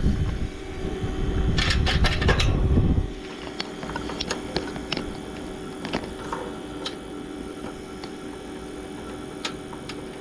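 A heavy low rumble for about the first three seconds, then an air-conditioning unit running with a steady hum and occasional faint ticks.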